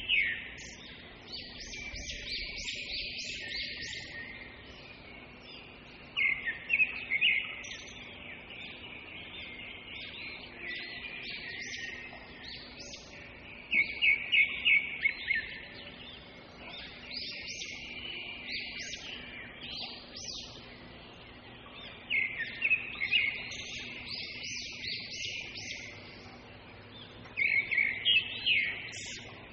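A songbird singing a short phrase of quick, high repeated notes, again about every six to eight seconds, over a steady faint hiss of oil frying in an iron kadai.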